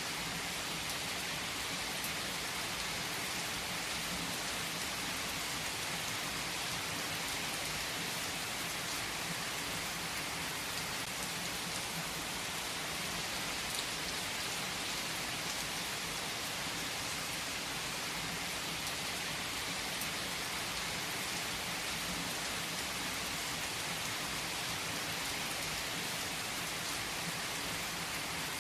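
Steady rain falling: an even hiss of drops hitting a surface, with a few sharper single ticks.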